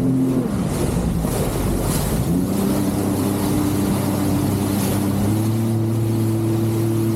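Jet ski engine running under way. Its pitch drops as the throttle eases just after the start, climbs back after about two seconds and holds steady, then steps up again about five seconds in. Rushing wind and water noise runs under it.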